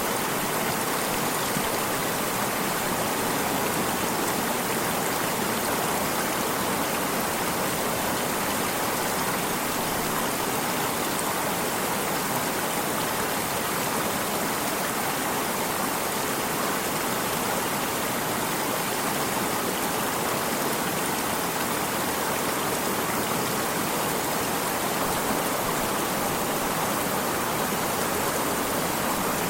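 Steady rushing of a flowing water stream, an even watery hiss with no changes.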